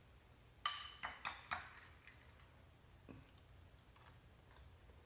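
Tableware clinking: one sharp ringing clink about half a second in, then a few lighter clinks and rattles that die away within a second, followed by faint scattered ticks.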